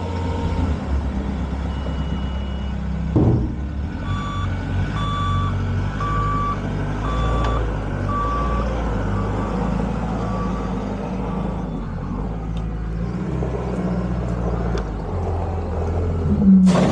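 Bobcat skid-steer loader's engine running steadily while its backup alarm beeps about once a second for several seconds, starting about four seconds in. A knock comes about three seconds in, and a loud bang near the end.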